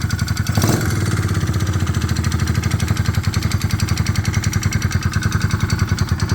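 A 2006 Kawasaki KLX110's small single-cylinder four-stroke engine idling with a rapid, even ticking clatter from the top end. The valves have already been adjusted, and the owner suspects the cam or cam chain, or a worn top end causing piston slap.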